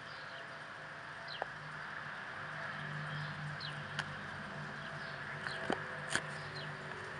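A bird repeating a short falling chirp about once a second over a steady outdoor hiss, with a low hum that swells a couple of seconds in and a few sharp clicks.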